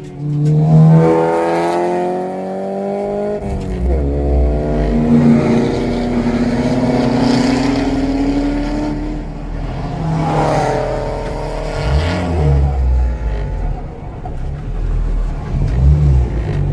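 Acura Integra Type R's 1.8-litre VTEC four-cylinder engine pulling hard on track, its pitch climbing and dropping several times as it is taken through gear changes, with a big change about four seconds in and again about ten seconds in.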